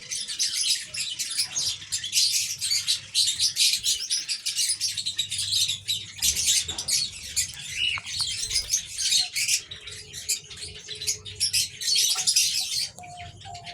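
Many small birds chirping and twittering together in a dense, continuous chatter, with a few short, lower, steady notes near the end.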